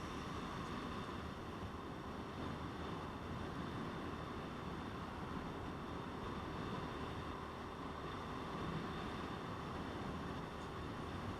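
Motorcycle running steadily on the move, its engine note held at a constant pitch under a steady rush of wind and road noise.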